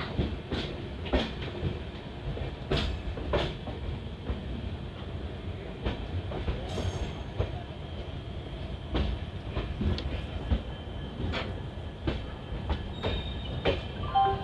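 Passenger train coaches running on the rails: a steady rumble with irregular sharp knocks of the wheels over rail joints, and a short wheel squeal near the end.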